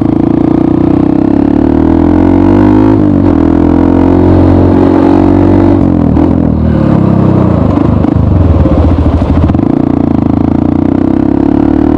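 Honda CRF150L's single-cylinder engine running loud through a Norifumi RV1 aftermarket exhaust while riding. The note holds steady, falls and wavers about halfway through, then climbs back and settles near the end.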